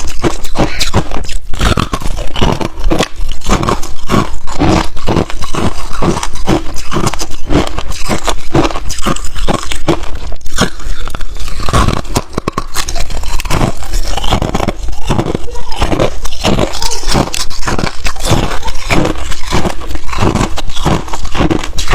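Ice being bitten and chewed close to the microphone: loud, rapid crunches, several a second, with a short lull about twelve seconds in.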